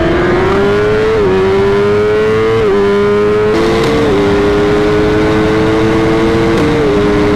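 High-performance engines at speed: one climbs steadily in pitch with quick upshifts about one, two and a half, and four seconds in, then holds a steady high note. A second engine runs alongside from about halfway through and drops a step near the end.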